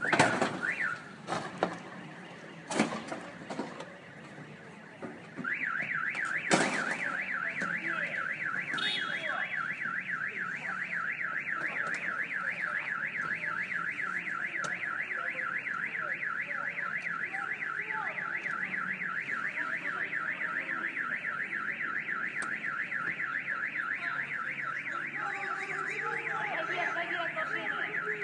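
Car alarm going off: a loud electronic wail sweeping rapidly up and down, about four times a second, starting about five seconds in. Before it come a few sharp knocks, the loudest just after the alarm starts.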